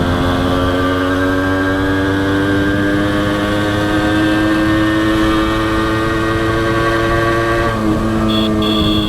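Honda CDI H100S single-cylinder four-stroke motorcycle engine running under way, its pitch slowly climbing as it pulls, then dropping sharply near the end. A thin high steady tone sounds briefly at the very end.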